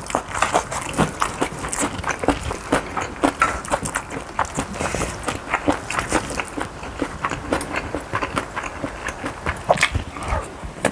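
Close-up chewing and mouth sounds of a person eating bibimbap: a dense, irregular run of short smacks and clicks.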